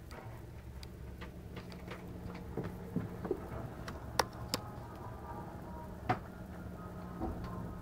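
Steady low hum inside a cruise ship's cabin, broken by irregular sharp ticks and creaks from fittings as the ship works in heavy storm seas.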